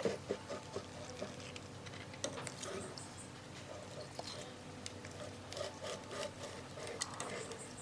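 Irregular small clicks, taps and light scraping, as of metal parts and tools being handled.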